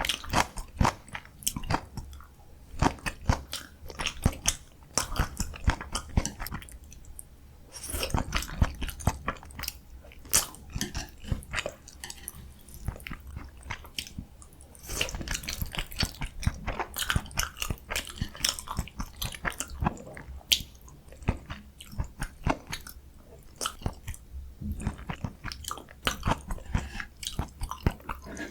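Close-miked eating sounds: a person chewing and biting food with a dense run of crunches and wet mouth clicks, pausing briefly twice.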